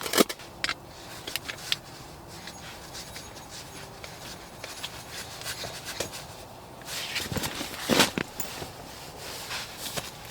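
Camping gear being handled: scattered rubs, scrapes and light knocks, with a cluster of sharper knocks about seven to eight seconds in.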